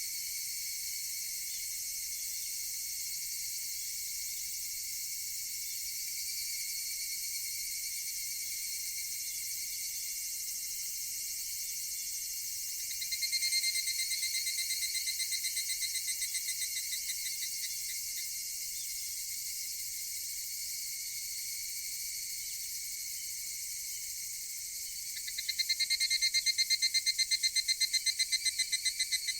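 Higurashi evening cicadas calling over a steady high insect chorus. One cicada starts a call of rapidly repeated pulses about halfway through and fades off, and a louder one starts its pulsing call near the end.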